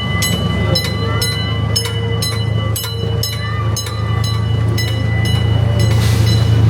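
A small ride-on amusement-park train running along its track, heard from on board: a steady low rumble with sharp, regular clicks about twice a second.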